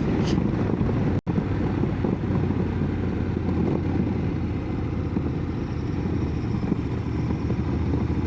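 Motorcycle engine running at low speed with wind rumbling on the rider's microphone. The sound cuts out for an instant about a second in.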